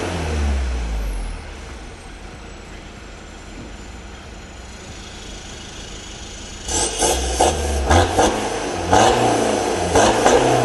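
BMW 520d (F10) four-cylinder diesel revving through a custom valve-controlled exhaust, the note falling away after about a second and a half. About seven seconds in, a rap track with a hard beat comes back in loudly.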